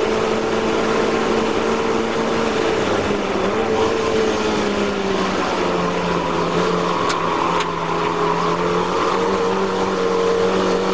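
Mazda MX-5 race car's four-cylinder engine heard from inside the cabin, running at high revs on the straight, then its pitch drops about three seconds in as the car slows for a corner and it runs on steadily at lower revs. Two short sharp clicks about two-thirds of the way through.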